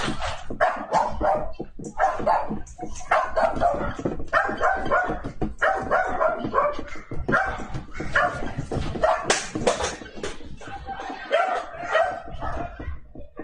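An animal giving short loud calls over and over in quick succession, mixed with some voices; the sound cuts off suddenly at the end.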